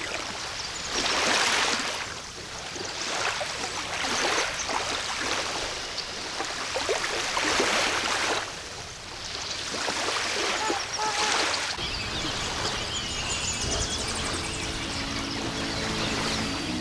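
Rushing outdoor noise swelling and fading every few seconds. Music with sustained low notes comes in about twelve seconds in.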